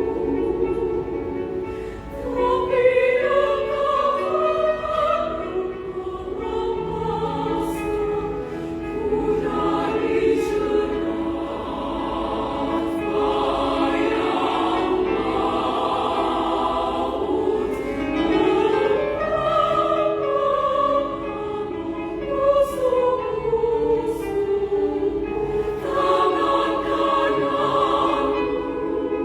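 Women's choir singing in several parts, with long held notes and melodic lines.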